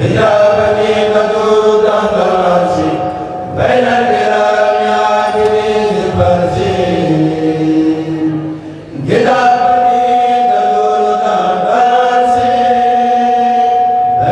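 A kourel, a Senegalese Mouride chanting group, singing a khassida in unison with long, drawn-out held notes. Fresh phrases begin about 3.5 s and 9 s in, each after a short breath.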